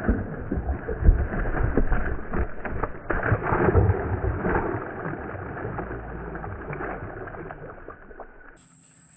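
Muffled water sloshing and splashing with irregular knocks, while a small hooked tarpon is worked at the boat. It fades out near the end.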